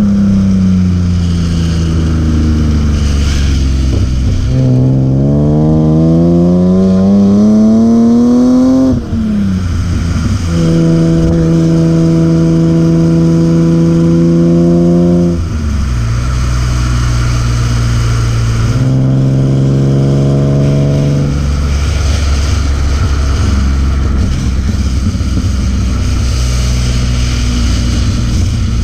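BMW E36 M3's S50B30 straight-six engine and exhaust under hard driving. The revs climb for about four seconds, then drop suddenly about nine seconds in. The engine is then held steady at high revs for about five seconds, falls, rises again briefly around twenty seconds in, and settles to a lower steady drone.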